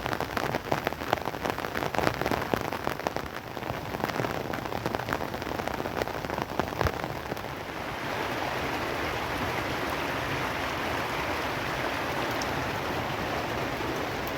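Rain falling, with many distinct drops striking a surface for the first half. About eight seconds in it changes to an even, steady hiss of rain.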